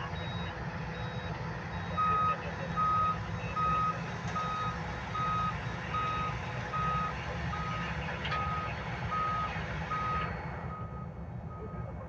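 Reversing alarm beeping steadily at one pitch, a little under two beeps a second, starting about two seconds in, with a fainter, higher-pitched beeper before it. A heavy diesel engine runs underneath.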